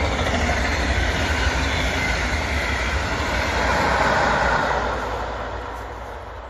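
Double-deck regional train passing, pushed by an electric locomotive at the rear: a steady rolling rumble and rail noise that swells as the locomotive goes by about four seconds in, then fades as the train moves away.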